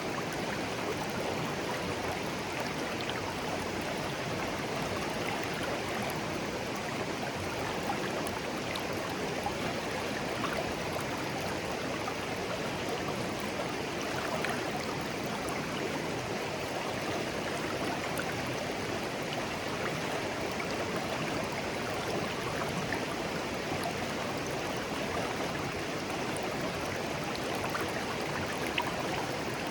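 A clear, shallow stream burbling steadily over stones, an even rush of water with small splashes and trickles mixed in.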